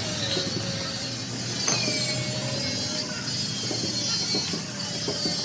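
Metalworking workshop noise during a hydraulic breaker rebuild: scattered small metallic clicks and rattles over a steady running hum and hiss.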